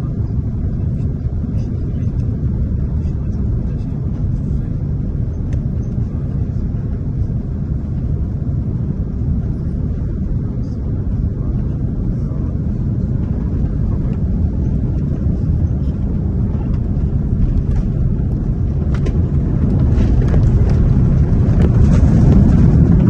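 Airbus A330-300 cabin noise: the jet engines and airflow make a steady low rumble, which grows louder over the last few seconds.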